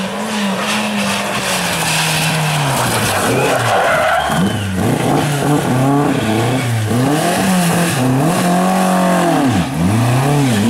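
Rally car engine revving hard, its pitch held steady at first and then rising and falling again and again as it shifts gears and lifts off.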